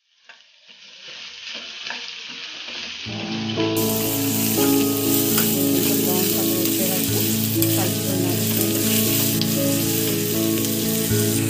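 Sliced onions and capsicum sizzling as they fry in oil in a steel kadai, stirred with a metal spatula that scrapes the pan now and then. The sound fades in over the first few seconds. From about three seconds in, a steady layer of held low tones, like background music, runs under it.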